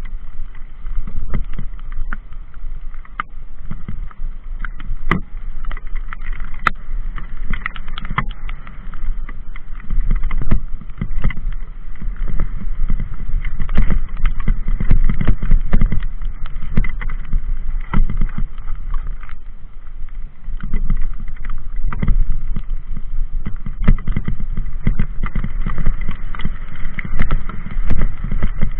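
Riding noise from a mountain bike on a rough, rain-wet trail: wind rumbling on the microphone, with many short knocks and rattles as the bike goes over bumps.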